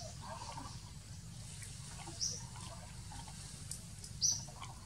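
Two short, high bird chirps about two seconds apart over a steady low rumble of forest ambience.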